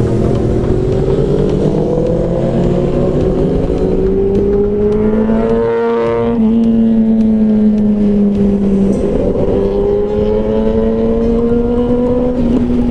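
Motorcycle engine running under way, its pitch climbing steadily as it accelerates. About six seconds in the note drops briefly, as at a gear change, then climbs again.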